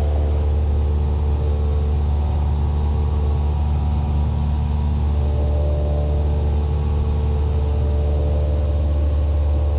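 Cessna 172's piston engine and propeller droning steadily in flight, heard in the cockpit.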